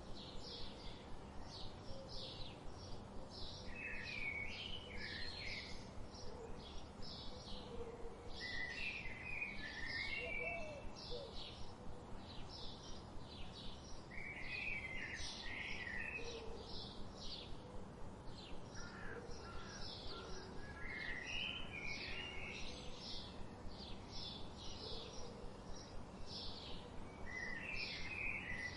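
Birds chirping: a steady run of short, high chirps, two or three a second, with busier, lower twittering phrases every five or six seconds over a faint steady hiss.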